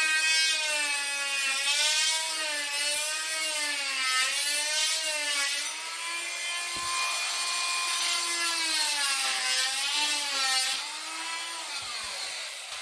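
Oscillating multi-tool cutting into a baseboard, its buzzing pitch sagging and recovering over and over as the blade is loaded, then cutting off near the end.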